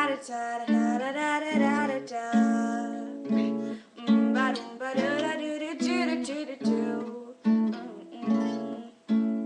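Acoustic guitar being strummed, chords changing about every second.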